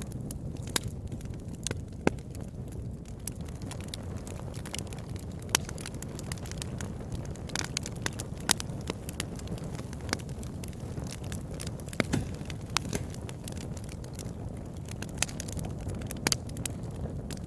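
Campfire burning, with a steady low rumble of flame and irregular sharp crackles and pops from the burning wood. The loudest pops come about 2, 5½, 8½ and 12 seconds in.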